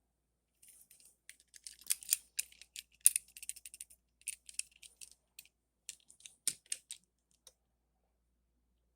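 Quick, irregular small clicks and light rattles of die-cast toy cars and small parts being handled, with a slightly heavier knock or two near the end.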